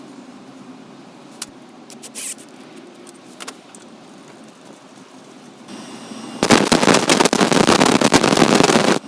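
Angle-grinder-driven DIY belt grinder: after a few light clicks, a loud, rough, crackling grinding noise starts about six seconds in and stops abruptly at the end, as when a workpiece is pressed to the running belt and then lifted off.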